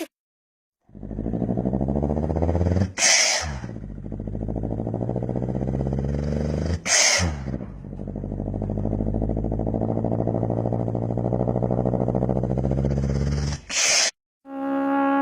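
A person imitating a car engine with the mouth: a low buzzing drone, broken three times by a short sharp hiss.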